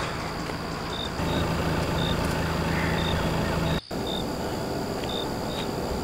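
Outdoor night ambience: a steady low rumble, heavier for a couple of seconds in the middle, with short high insect chirps repeating every half second or so. The sound cuts out for an instant about two-thirds of the way through.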